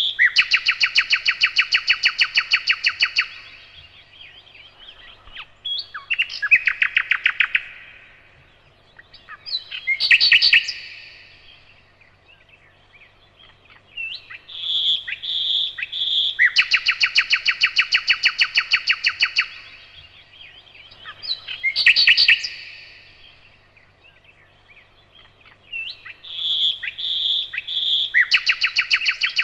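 A nightingale singing: its phrases alternate between a few separate notes, long runs of fast, evenly repeated notes, and short, loud whistled flourishes, with quiet pauses between them. The same sequence of phrases comes round again about every twelve seconds.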